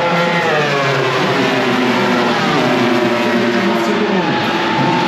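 Several MotoGP race bikes' engines at high revs. The engine notes slide down in pitch as the riders brake and shift down, drop sharply about four seconds in, then climb again as they accelerate near the end.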